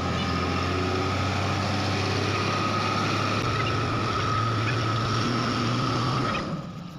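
Komatsu PC200-5 excavator's diesel engine running steadily, with a low hum and a steady whine; it drops back about six seconds in.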